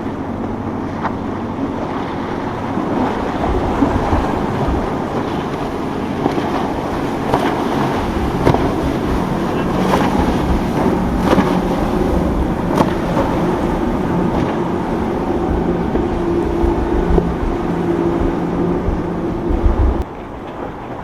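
Boat engines running as boats pass through an inlet, a steady drone over wind buffeting the microphone and the rush of water, with a few sharp knocks; the sound drops off suddenly near the end.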